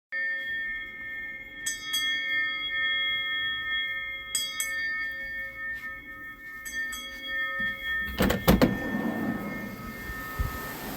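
Bell-like metallic ringing: several steady tones are struck again three times in quick pairs. A couple of sharp knocks come about eight seconds in, followed by a hiss.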